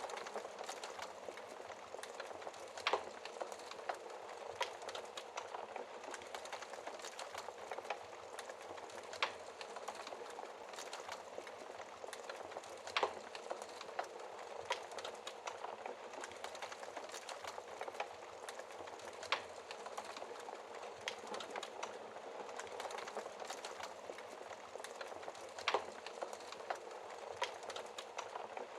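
Wood fire burning in a fireplace, heard through its glass shield: a steady soft crackle and hiss with scattered small snaps and about five sharper pops.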